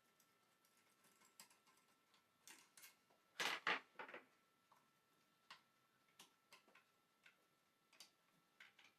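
Faint, scattered metal clicks and clinks of tools and alternator parts being handled during disassembly, with a louder cluster of clinks about three and a half seconds in.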